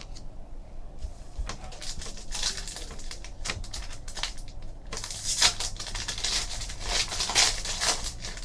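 Hands handling trading cards and pack packaging: a run of crisp clicks, slides and crinkling rustles, busiest in the second half.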